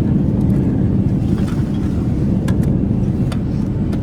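Boeing 787-8 airliner heard from inside the cabin: a steady, loud, deep rumble from the engines and airframe, with a few sharp knocks in the second half.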